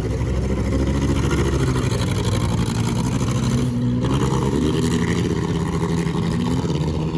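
Several demolition derby cars' engines running and revving at once, loud and continuous, their pitches rising and falling against each other.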